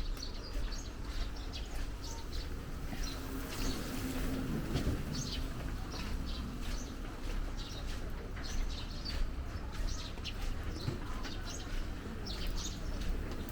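Small birds chirping in short, irregular calls over a steady low street rumble.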